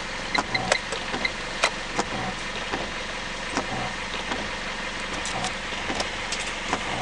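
Foton Tunland's 2.8-litre Cummins turbo diesel idling steadily, with scattered sharp clicks and knocks over it.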